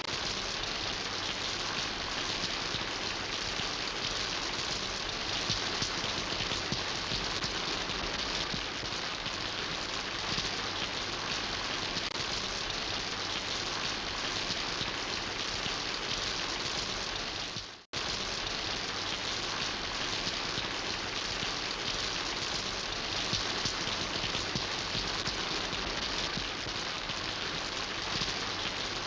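Steady rain falling, an even hiss of many drops. About 18 seconds in it fades out for an instant and comes straight back.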